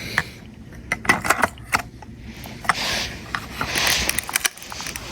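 Clicks and rubbing of a car electrical part being handled and fitted by hand: a scatter of sharp clicks, with a rustling scrape in the second half.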